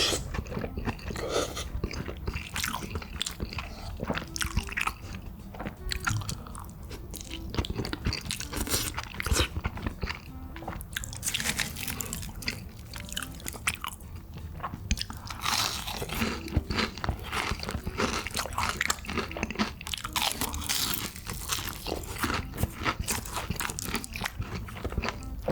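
A person eating close to the microphone: steady chewing with many small, irregular crunchy bites.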